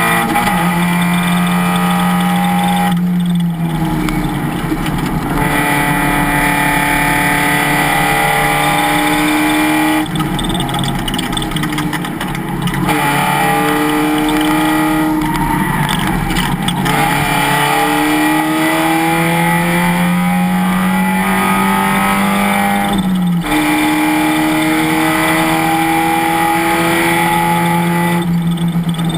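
Race car engine at racing speed, its pitch climbing under acceleration and dropping sharply several times at shifts or lifts, over steady wind and road noise.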